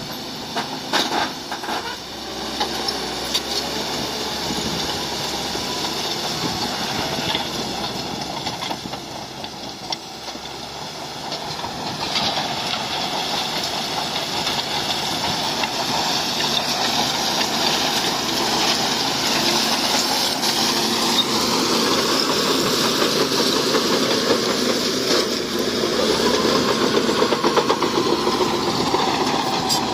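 Bulldozer's diesel engine working under load, its pitch rising and falling as the throttle changes. It gets louder about twelve seconds in.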